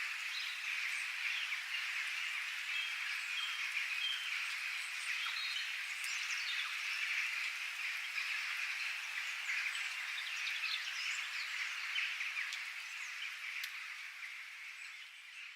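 Many birds chirping and calling over a dense, steady background chorus, fading out near the end.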